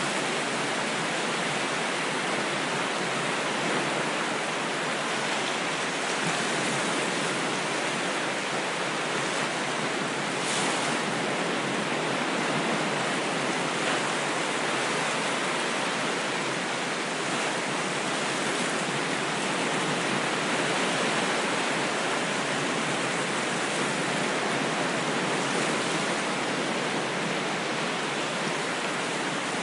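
Ocean waves washing on a shore as a steady, even rush of surf, with hardly any rise and fall between waves.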